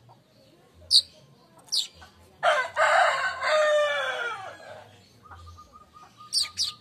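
Short, sharp, high chips of manyar (weaver) birds come about a second and two seconds in, and again near the end. In the middle a rooster crows once for about two seconds, the loudest sound, its pitch falling at the end. A faint steady tone runs through the last second and a half.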